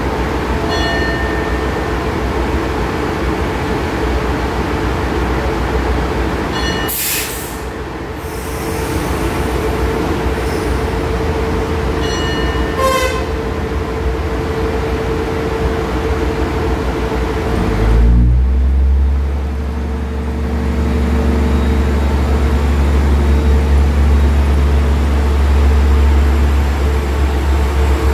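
A diesel passenger train runs at a standstill with a steady hum. There is a loud hiss about seven seconds in and a few short high chirps. About eighteen seconds in, the engine revs up into a deep, loud rumble as the train pulls away from the platform.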